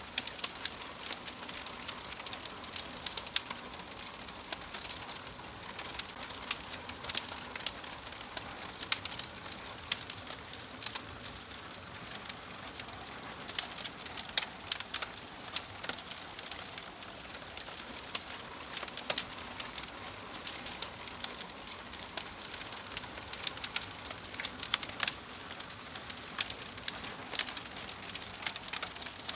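Fireplace fire crackling: a steady soft hiss with frequent sharp pops and snaps at irregular intervals.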